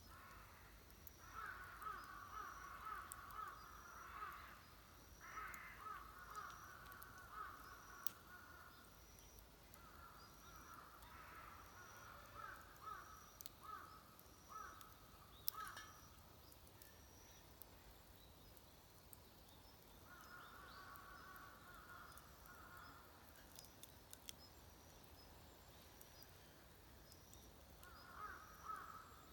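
Crows cawing in runs of rapid repeated calls, several bouts with pauses between, faint and at a distance, with scattered faint clicks.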